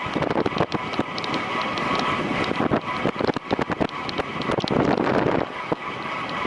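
Wind rushing over the microphone of a bicycle racer's camera at speed, with many sharp clicks and rattles from the bike.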